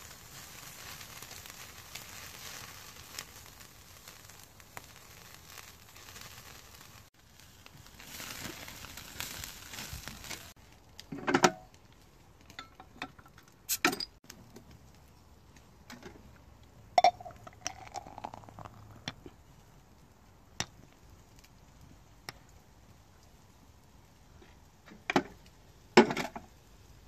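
Thin-sliced pork belly sizzling on a grill grate over a wood fire for about ten seconds. Then the sizzle stops suddenly and a handful of sharp glass clinks and knocks follow, typical of a beer bottle and glass being handled.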